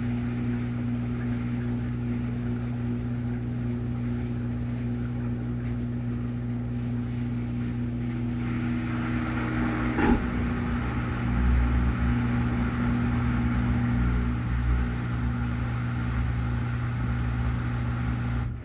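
Washing machine running with a steady motor hum. A sharp click comes about ten seconds in, followed by heavier low rumbling.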